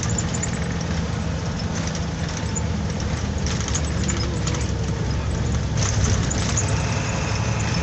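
A truck's engine running steadily while it drives, with road noise and scattered rattles and clicks.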